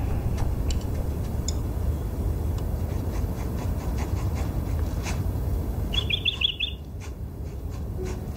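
A small bird gives a quick run of high chirps about six seconds in, over a steady low rumble with scattered faint ticks.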